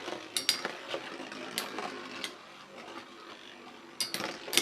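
Metal Beyblade spinning tops whirring in a plastic stadium, with scattered sharp clicks as they strike each other and the stadium wall, several of them close together near the end.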